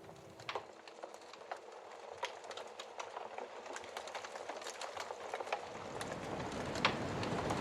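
Wood fire crackling with irregular sharp pops, one louder pop near the end. Under it a snowstorm wind rush swells in about six seconds in.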